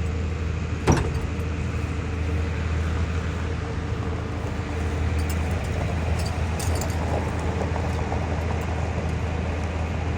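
A vehicle engine running steadily with a low, even hum, and one sharp click about a second in.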